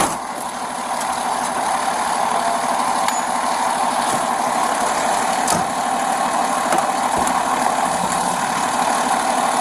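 Vehicle engine idling with a steady, even noise.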